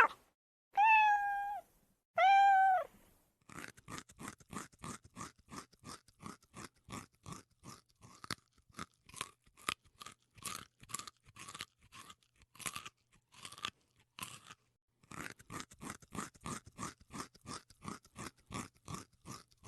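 A cat meows twice, each call sliding down at the end, then comes a long run of quick crunching chews, about three a second, with a short pause partway through.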